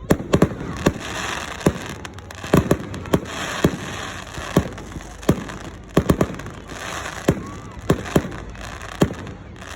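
A firework display going off: an irregular run of sharp bangs, roughly two a second, with crackling in between.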